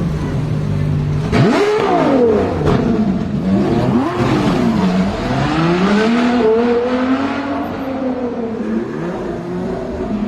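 McLaren 765LT Spider's twin-turbo V8 idling, then revved sharply about a second and a half in. The engine note climbs and falls several times, with a longer climb through the middle that eases back down near the end.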